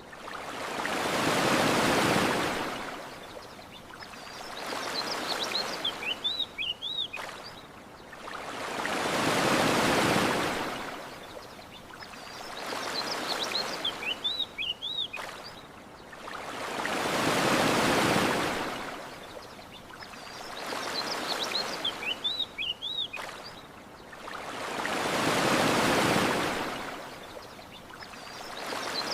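Ocean waves washing in and drawing back, a big wave about every eight seconds with a smaller one between. Short chirping bird calls come in the lulls between waves.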